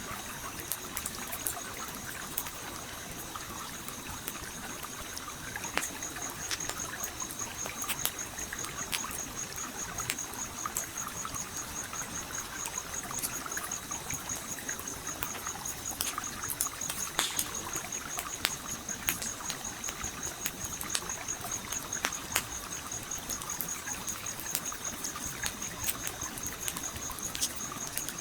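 Campfire crackling with frequent sharp pops over the steady trickle of a gently flowing stream. A continuous high-pitched pulsing trill sits above them, growing stronger about six seconds in.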